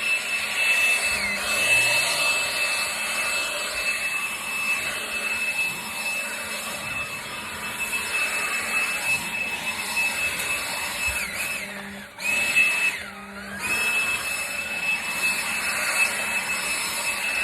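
Leaf blower running steadily with a high whine over its rushing air. About twelve seconds in it winds down and cuts out briefly, then spins back up and runs on.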